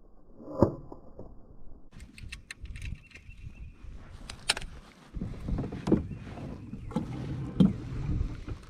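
Handling noises on a plastic fishing kayak: a sharp knock about half a second in, scattered light clicks, then a busier stretch of low bumps and knocks against the hull over the second half, with water around the boat.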